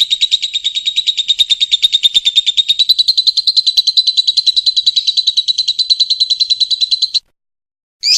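Lovebird ngekek: a long, unbroken rapid chatter of shrill notes that cuts off abruptly about seven seconds in, followed by one short chirp near the end.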